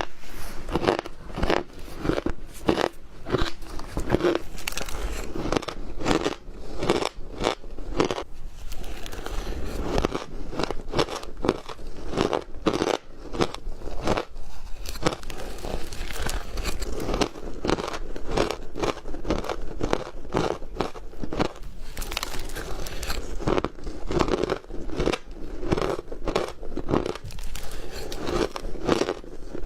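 Squeaky ice being bitten and chewed close to the microphone: a continuous run of sharp crunches and cracks, several a second, thinning briefly now and then between bites.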